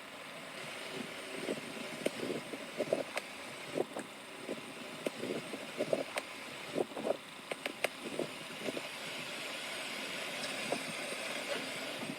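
Vehicle noise: a steady hiss, slowly growing louder, with many irregular low knocks and thumps and a few sharp clicks.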